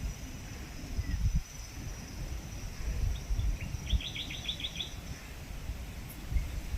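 Strong wind buffeting the microphone in uneven low rumbling gusts, with a bird giving a quick run of about seven high chirps about four seconds in.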